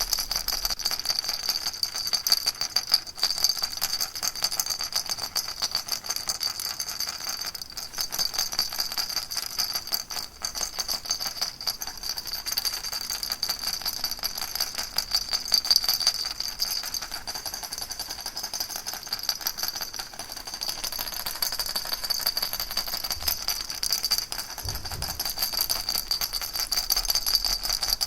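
Baby rattle shaken continuously: a dense, fast stream of small clicks with a bright, high jingle, fairly even throughout.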